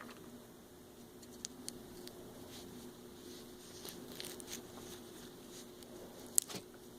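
A dog sneezing once, sharp and loud, about six and a half seconds in, after a few faint clicks and snuffles.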